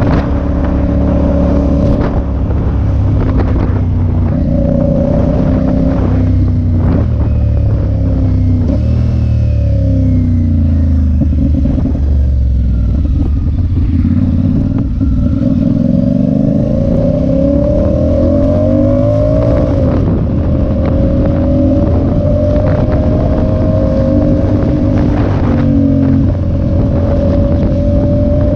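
Motorcycle engine running under way, its pitch rising and falling several times as the bike speeds up and slows down, under heavy wind rumble on the rider's microphone.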